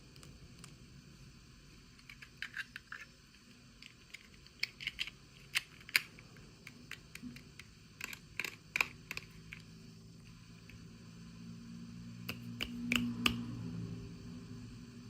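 Irregular light clicks and taps of small toys and packaging being handled, coming in clusters of a few at a time.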